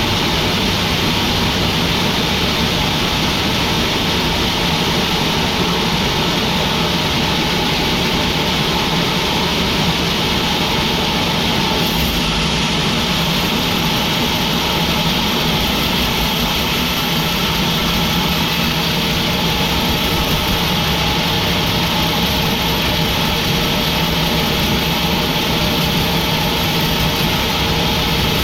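Sawmill machinery running steadily: a constant engine-driven drone with a steady hum, unchanging throughout.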